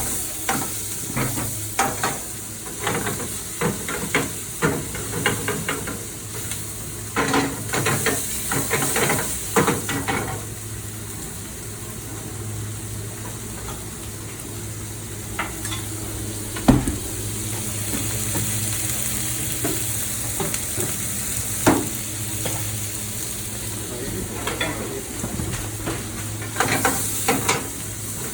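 Food sizzling in a hot pan with a steady hiss, while metal utensils repeatedly knock and clink against the pan; the strikes come in busy runs with a quieter stretch in the middle. A steady low hum runs underneath.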